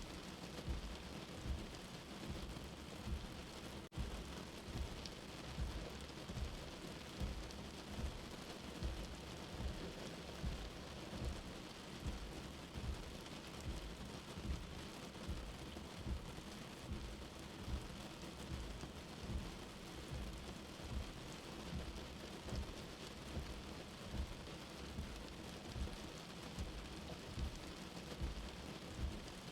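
Steady rain with a soft, low heartbeat thump repeating about once a second.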